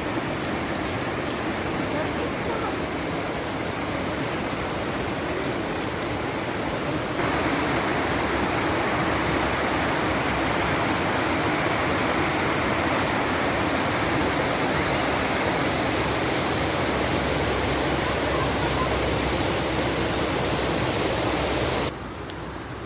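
Steady rush of fast-flowing water, like a mountain stream or waterfall, getting louder about seven seconds in and dropping away sharply near the end.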